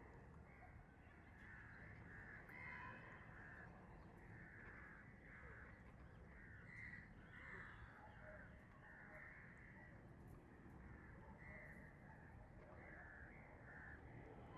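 Faint short bird calls, repeated many times in quick runs, over a low steady background rumble.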